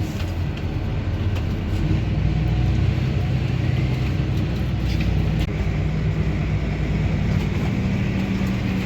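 Farm tractor engine running steadily under way, a low, even drone with a noisy rattle over it.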